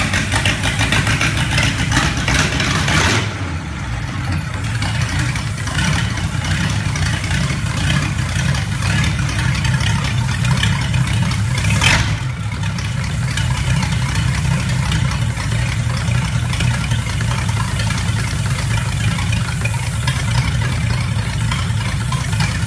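Rebuilt stock prewar Ford flathead V8 engine running, louder for about the first three seconds and then settling to a steady idle. A single short, sharp noise stands out about twelve seconds in.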